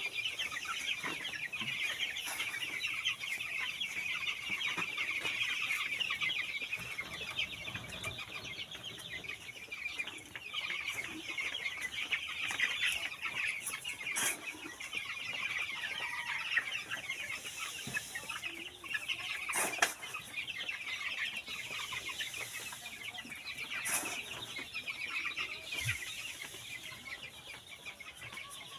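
A large flock of poultry chickens calling all at once: a dense, continuous chatter of many overlapping calls, with a few sharp knocks now and then.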